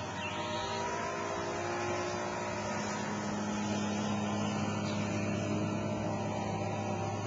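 Briggs & Stratton lawn tractor engine running steadily at a constant speed.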